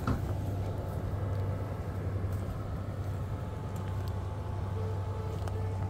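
Commuter train of Bombardier MultiLevel coaches standing at the platform, giving off a steady low hum with a faint higher tone over it; a second faint tone joins near the end.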